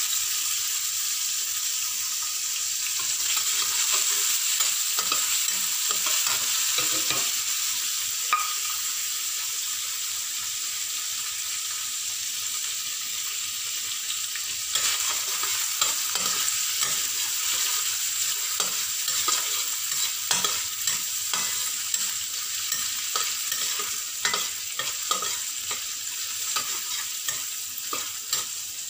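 Diced ingredients sizzling in oil in a stainless steel wok, with a metal spatula stirring and scraping against the pan. The scrapes and clinks come more often in the second half.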